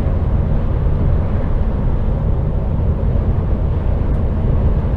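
Steady low drone of an HGV's diesel engine and tyre and road noise, heard from inside the cab while the lorry drives on the motorway.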